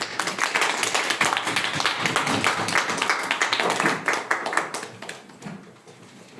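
Audience applauding: a dense patter of hand claps that starts as the song ends, thins after about four seconds and dies away.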